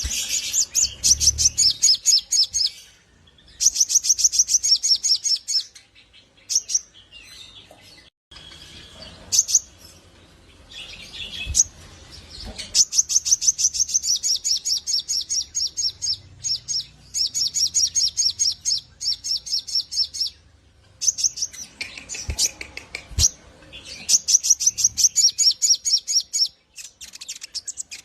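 Little spiderhunter (sogok ontong) in full song: long, fast runs of rapidly repeated high notes, several stretches of a few seconds each broken by short pauses.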